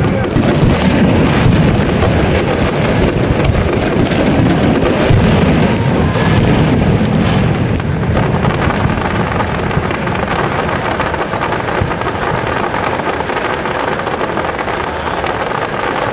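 Fireworks display: a dense, continuous barrage of bangs and crackles, a little louder in the first half and easing slightly in the second.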